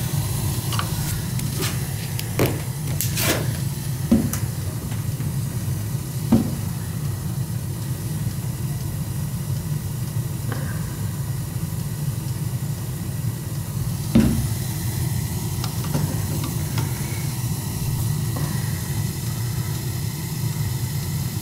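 Gas boiler burner firing with a steady low rumble while its new gas valve's regulator is turned up toward 3.5 of manifold pressure. There are a few light clicks and taps, one at about two seconds in, several more in the next few seconds, and another about two-thirds of the way through.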